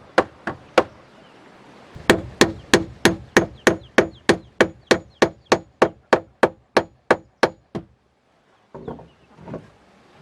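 Hammer driving nails into wood, fast even blows of about three a second with a brief pause after the first few; the hammering stops about two seconds before the end, leaving only a couple of faint knocks.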